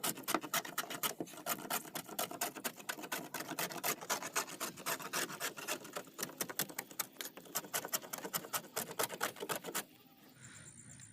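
Wood being rasped or sanded by hand in quick back-and-forth strokes, about six a second, stopping near the end.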